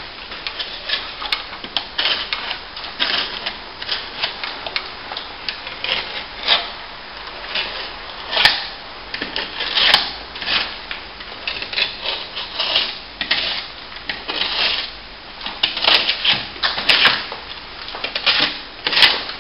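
Stanley knife blade scraping and gouging into a crack in plaster, in quick irregular strokes with a few harder digs, raking the crack out and opening it up before it is filled.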